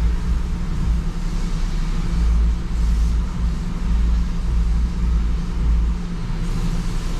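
Low, steady engine rumble of a 2016 Jeep Wrangler Rubicon, heard from inside its cabin, swelling and easing every second or so.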